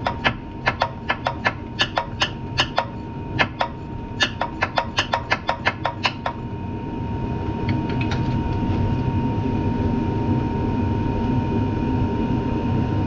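A socket ratchet clicking as a nut is undone: a regular run of sharp clicks, about four or five a second, that stops about six seconds in. A steady rushing noise continues under it and afterwards.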